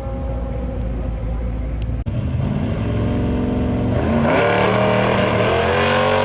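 Muscle car engine running, then revving up with a steep rise in pitch from about four seconds in. The sound changes abruptly about two seconds in.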